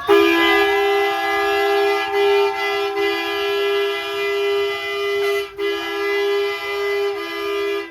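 A horn blaring, held down in one long steady two-note blast with a brief break about five and a half seconds in, over faint shouting voices.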